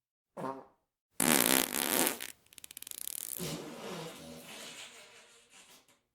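Fart sound effects: a short toot falling in pitch, then a loud blast about a second in that breaks into a fast sputtering rattle of about ten pops a second, trailing off into a long pitched tail that fades away.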